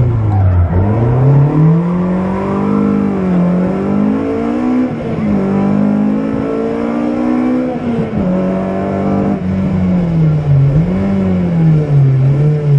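BMW M3 rally car's engine heard from inside the cabin at stage pace, revs rising and falling as it accelerates and slows. The revs dip about a second in, climb and hold through the middle, drop sharply, then rise and fall several times quickly near the end.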